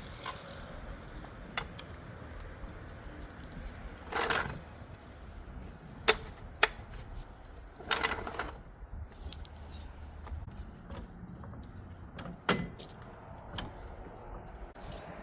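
Scattered metallic rattles and clinks of heavy tire chain links being handled for a loader's rear tires: short jangling rattles about four, eight and twelve seconds in, and two sharp clicks around six seconds.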